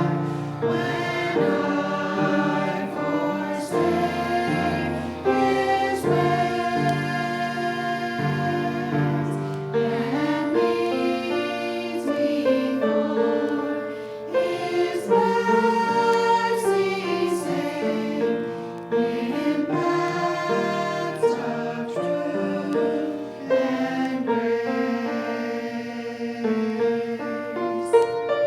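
Slow choral church music: a choir singing held chords that change every second or so.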